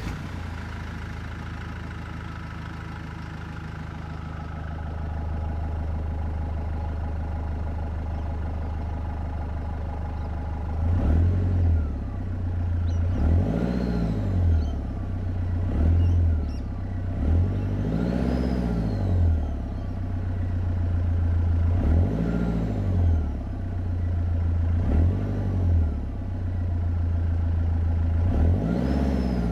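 Nissan Navara D22's 2.5-litre YD25 turbo-diesel, fitted with a snorkel and 3-inch exhaust, idling steadily just after starting, then revved in repeated blips about every two to three seconds from about a third of the way in. A higher whine rises and falls with each rev: the turbo spooling.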